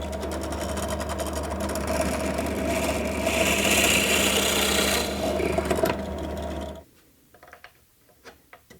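Electric drill running steadily while its bit bores a hole into the end grain of a wooden slat, the cutting adding a hiss for a couple of seconds midway. The motor shuts off about seven seconds in, followed by a few light clicks.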